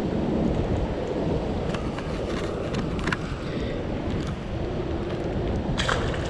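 Wind buffeting the microphone, a dense low rumble with a few faint clicks and a sharper click near the end.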